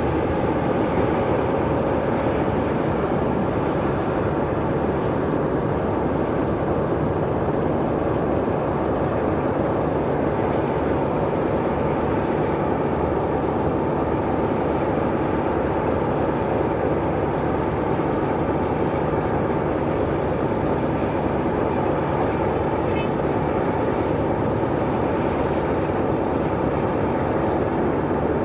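Diesel train engine running steadily at an even level, with no rise or fall in pitch or loudness.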